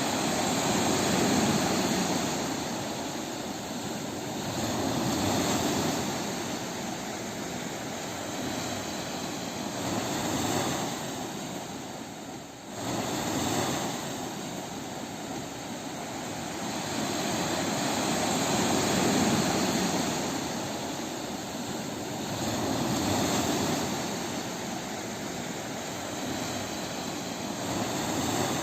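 Ocean surf on a beach: a continuous rush of waves that swells and falls back about every four seconds, with a brief dip a little before halfway.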